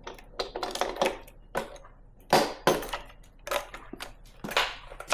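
Hand tools and metal engine parts knocking and clattering irregularly while work starts on the second side of a Ford 5.4 2V V8 being torn down.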